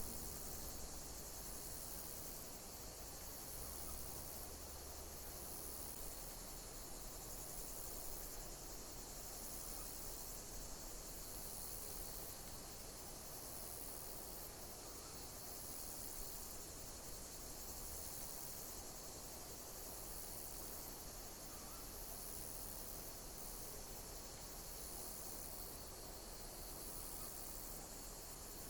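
Insects chirping: high-pitched chirps repeating about once every second and a half over a steady high-pitched hiss of insect song, with a faint low rumble beneath.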